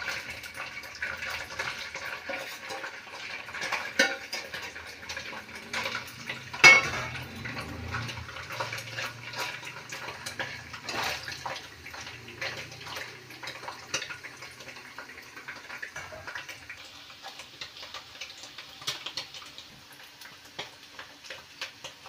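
Paneer cubes sizzling in hot oil in a kadhai, with a steel slotted spoon clinking and scraping against the pan as they are stirred. Two louder clanks come about four and about seven seconds in, and the sizzle grows fainter toward the end.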